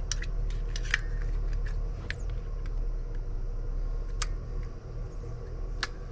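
Scattered sharp metal clicks and taps as a tool works open an old ignition switch by bending back its tabs, over a steady low hum.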